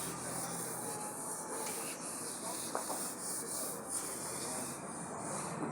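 Sandpaper rubbed by hand over a truck cab's panel: a steady scratchy hiss that swells and dips with the strokes, about once a second.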